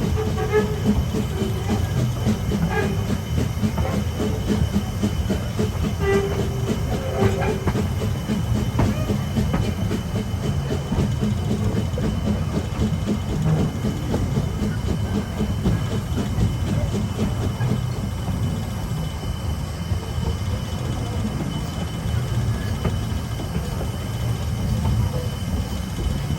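Two-foot-gauge train running along the track: a steady rumble and rattle of the cars on the rails.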